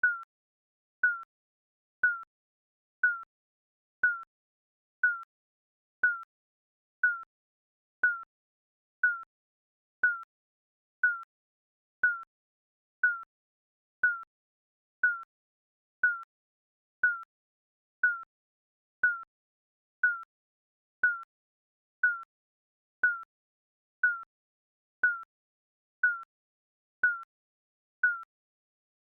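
Digital countdown timer beeping once a second: a short electronic beep, the same pitch each time, that dies away quickly.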